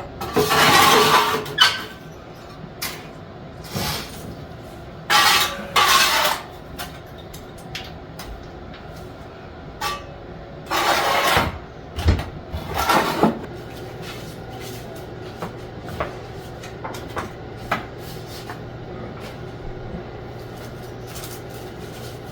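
Clattering and rustling of household things being moved and gathered up while tidying a room, in several short bursts with scattered knocks. A steady low hum comes in about two-thirds of the way through.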